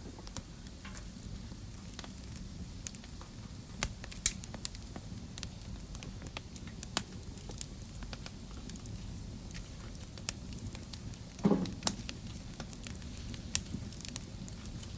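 Wood fire burning in a fireplace: a low steady rumble of flames with scattered sharp crackles and pops, and one louder, lower burst about three-quarters of the way through.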